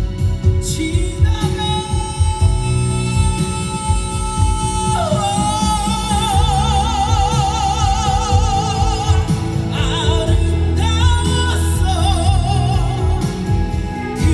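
Live band music with a woman's voice singing long held notes with a wide vibrato, without clear words, over bass and drums. The longest note starts about five seconds in and holds for about four seconds.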